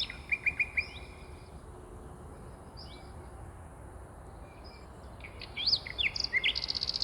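Songbirds singing: a few quick falling chirps at the start, then a lull, then a lively run of trills and rising and falling whistled notes in the last two seconds, over a steady faint background hiss.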